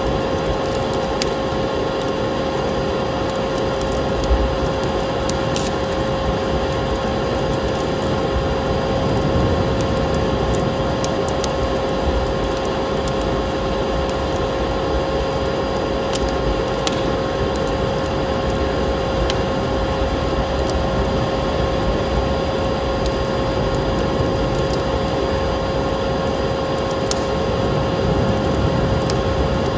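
Wood fire crackling in a fireplace: scattered sharp pops and snaps over a steady rushing hiss, with a steady tone running underneath.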